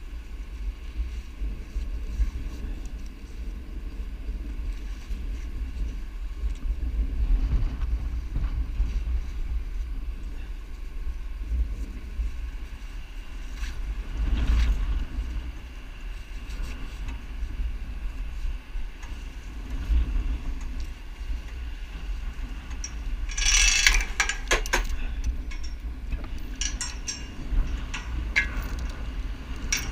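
Mobile crane working on its rope under a steady low rumble of engine and wind, with a burst of metallic clanking and rattling about 24 seconds in.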